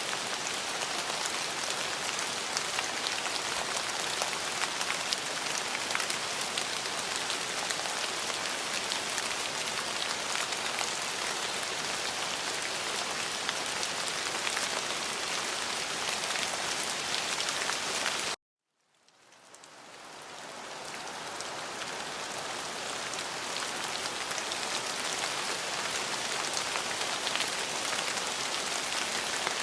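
Steady rain falling, a dense even patter of drops. About two-thirds of the way through it cuts out suddenly to silence, then fades back in over a couple of seconds, like a splice between loops of the recording.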